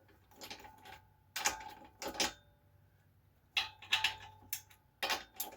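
Socket wrench clinking and clicking against metal in several short bursts, with a quiet gap in the middle, as the socket is fitted onto a brake caliper bolt.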